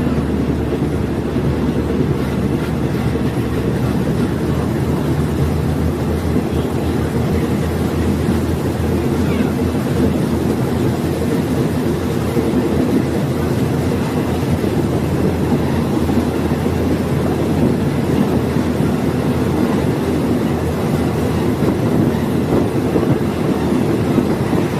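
Diesel multiple unit railcar running along the line: a steady drone of the diesel engine and wheels on the rails, unchanging throughout.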